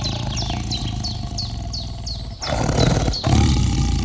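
A low animal growl or rumble, with short high falling chirps repeated about three times a second above it. There is a brief break about two and a half seconds in, and then the rumble goes on.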